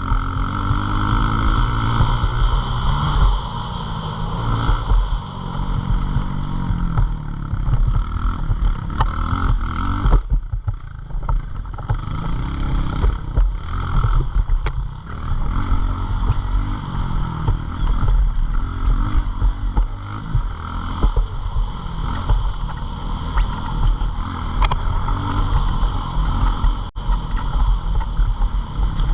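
Pit bike engine running under a rider, its pitch rising and falling as the throttle is opened and closed, with a short easing off about ten seconds in.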